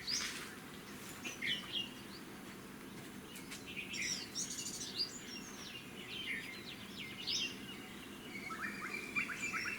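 Several songbirds chirping and calling in short, high notes scattered throughout, with a quick run of repeated notes near the end, over faint steady background noise.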